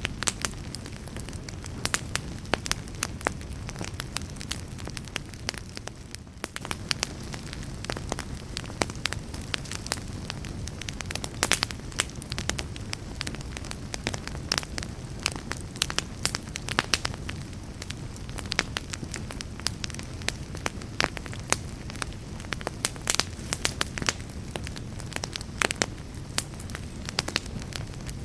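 Wood fire burning with a steady low rush and frequent sharp, irregular crackles and pops.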